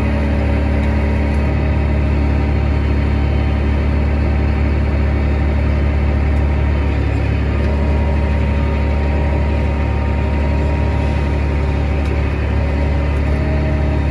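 Farm tractor's diesel engine running steadily at a constant speed, a loud low drone that cuts in and out abruptly.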